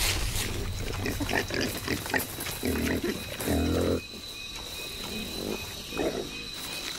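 Pygmy hogs grunting in short low bursts over a rustle of dry leaves. The grunts are loudest a little before the middle; then it goes quieter, with one more grunt near the end.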